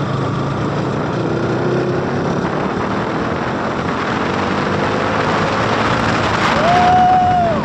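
Motorcycle engine running at speed, its pitch rising slowly, with wind rushing over the microphone. Near the end a horn sounds once for about a second.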